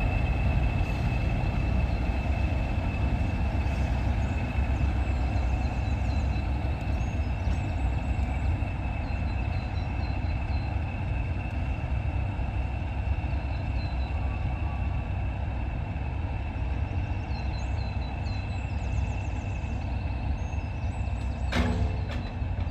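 English Electric Class 40 diesel locomotive's 16-cylinder engine running steadily as it shunts light engine, a deep rumble with a high steady turbocharger whistle that is strongest at first. A single sharp knock sounds near the end.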